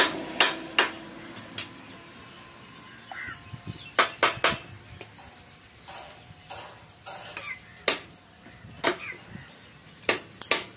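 Sharp metallic clicks and clinks of small steel tools and engine parts, coming irregularly, as a piston-pin circlip is worked into a piston with internal circlip pliers.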